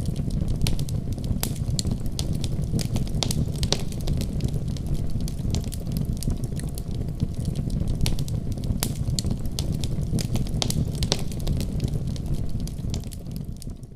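Fire burning in a fireplace: a steady low rumble of flames with frequent sharp crackles and pops, fading out at the very end.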